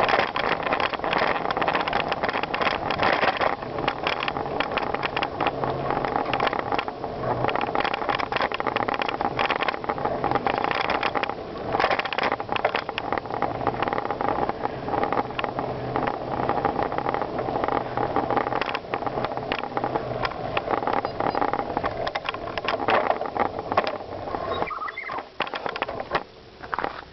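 Bicycle riding over gravel: a continuous crunch and rattle of tyres on loose stones, dense with small clicks, that drops away about 25 seconds in.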